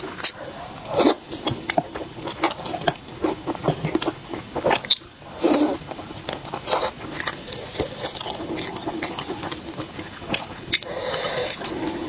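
Close-up eating: bites and chewing with many short, crisp crunches, and a longer noisy stretch of about a second near the end.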